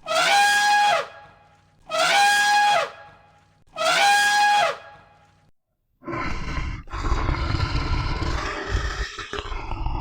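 Three identical short, high, horn-like animal calls about two seconds apart, each falling in pitch at its end, followed by a longer rough, noisy animal call.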